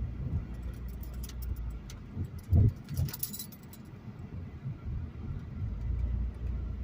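Car driving, heard from inside the cabin: a steady low road rumble, a thump about two and a half seconds in as if over a bump, and light high-pitched rattling over the first half.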